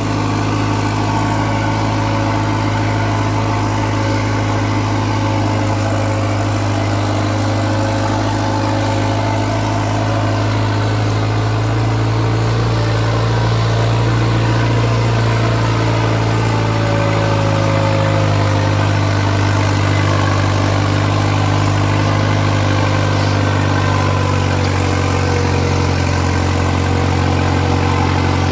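New Holland 5630 4WD tractor's diesel engine running under heavy load as it pulls two harrows at full effort: a steady low drone whose pitch shifts slightly about halfway through.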